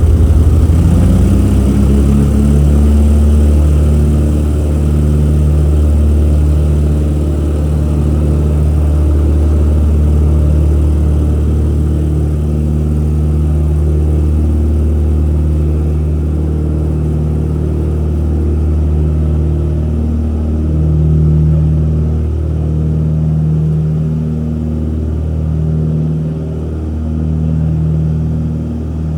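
de Havilland Dragon Rapide's twin piston engines at takeoff power, a loud, steady deep drone whose pitch rises over the first couple of seconds and then holds.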